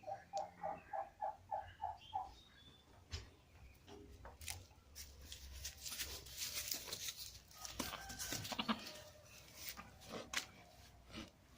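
A farm animal calling: a quick run of about eight short, even notes in the first two seconds, followed by scattered clicks and rustling.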